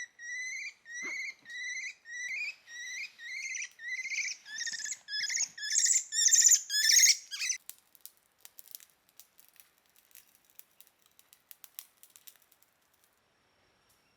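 An animal calling: a run of short, rising squeaky notes that come faster and louder, about two a second at first and nearly three a second near the end, stopping suddenly about halfway through. Faint scattered clicks follow.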